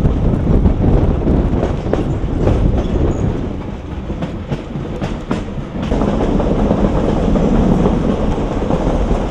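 A vintage railway carriage running along the track, with a steady rumble of wheels on rail and a rapid run of clicks over the rail joints. The clicking thins out about six seconds in, leaving a smoother rumble.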